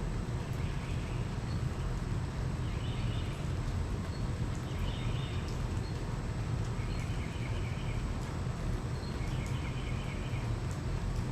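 Steady low background rumble with short pulsed trilling animal calls, each under a second long, repeating every second or two.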